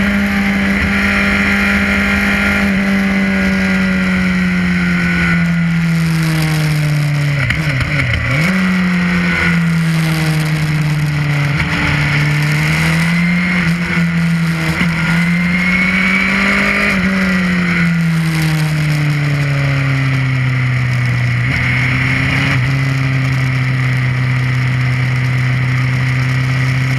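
Onboard sound of a Suzuki GSX-R's inline-four engine at moderate revs. The pitch eases down with a couple of brief dips and rises, then holds steady near the end, over a steady rush of wind and road noise.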